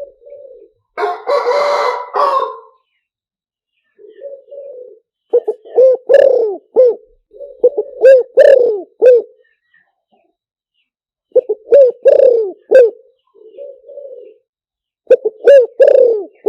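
Spotted dove cooing in repeated multi-note phrases, the kind of call played as a lure for wild doves. About a second in there is a briefer, harsher, noisier call.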